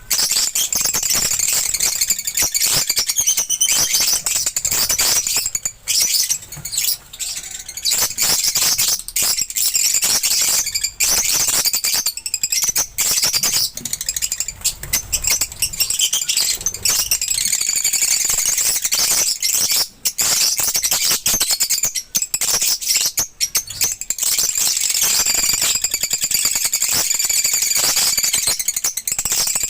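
Lovebirds chattering and chirping continuously: a dense, high-pitched din of many overlapping calls with brief breaks.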